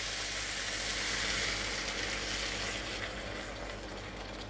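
Peppers and onions sizzling in a hot wok as a sauce slurry is poured in; the hiss slowly dies down toward the end.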